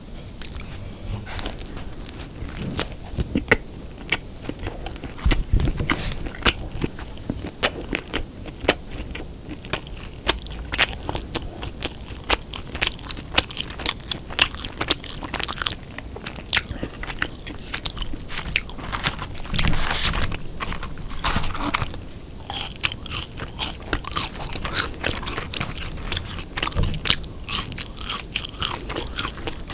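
Close-miked biting and chewing of a Lotteria Folder Burger (beef), with quick crunchy clicks and wet mouth sounds.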